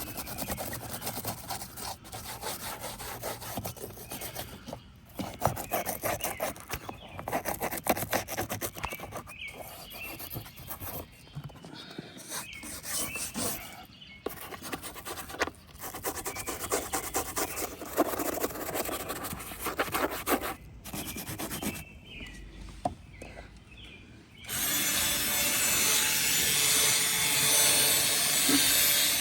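Rapid back-and-forth scrubbing of a brush on a car's interior, in several runs with short pauses. Near the end a louder, steady rushing machine noise starts and holds.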